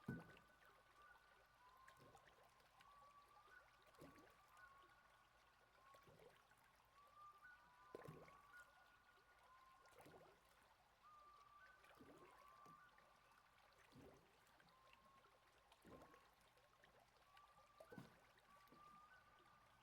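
Faint taonga pūoro sleep soundscape over flowing river water: a few soft held notes that slide gently between pitches, with a soft pulse about every two seconds.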